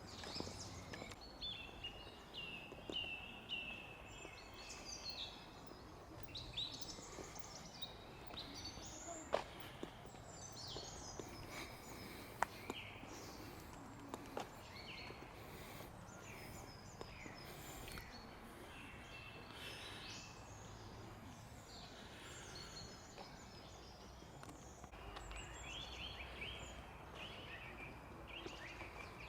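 Small songbirds chirping and twittering, many short calls overlapping. A few sharp clicks stand out, the loudest about nine and twelve seconds in.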